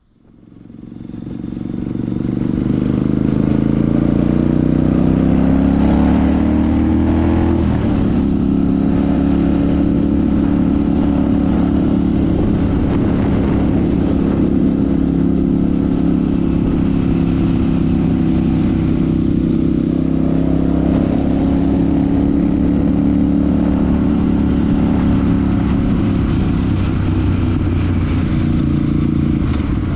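Royal Enfield Super Meteor 650's parallel-twin engine and exhaust under way. The sound fades in, rising in pitch as the bike accelerates, then steps at an upshift about seven and a half seconds in and settles to a steady cruise.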